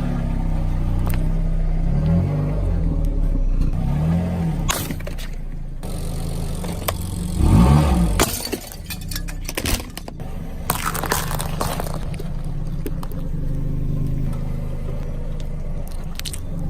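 A vehicle's engine running, its pitch rising and falling a few times, with sharp cracks and crunches of objects being crushed and breaking.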